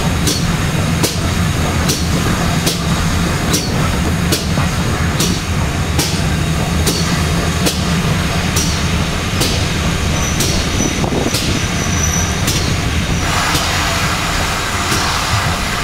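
A passenger train running over jointed track: a steady low rumble with regular clicks of the wheels crossing the rail joints. A hissing rush joins in about thirteen seconds in.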